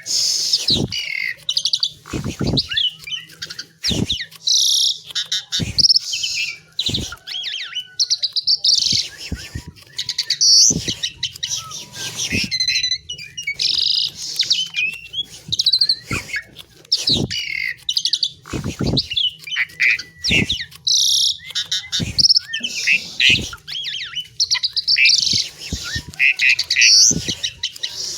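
Asian pied myna singing vigorously: a continuous run of varied whistles, chirps and harsh chattering notes in phrases every second or two, broken by many sharp clicks.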